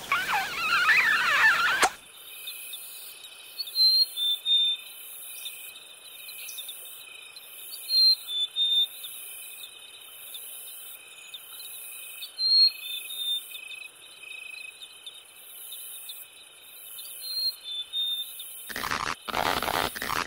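Crickets chirping in a steady high night chorus, with short chirps repeating over it. Before that, for about two seconds, there are loud wavering high calls, and a second before the end loud rough bursts cut in.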